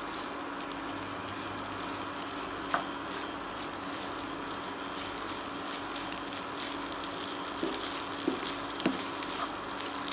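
Poha with potatoes and onions sizzling gently in a nonstick pan as it is stirred with a spatula, with a few light scrapes and taps of the spatula against the pan. A steady hum runs underneath.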